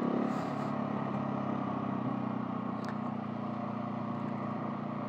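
Husqvarna 701 Supermoto's single-cylinder engine running steadily as the bike rides along, easing off slightly about two seconds in.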